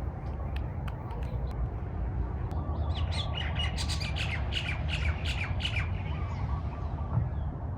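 A bird calling a quick run of short, repeated high chirps for a few seconds, over a steady low rumble.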